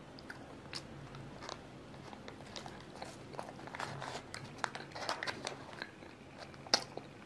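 Close-up eating of a crispy choux puff with a crackly crust: biting and chewing give a scatter of small, quiet crunches and crackles, with a sharper crunch near the end.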